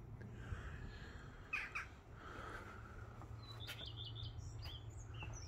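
Small birds chirping faintly: two short calls about a second and a half in, then a quick run of high chirps through the second half, over a steady low hum.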